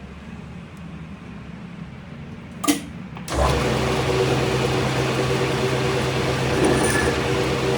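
A sharp knock, then a workshop machine's motor starts up about three seconds in and runs steadily with a loud hum.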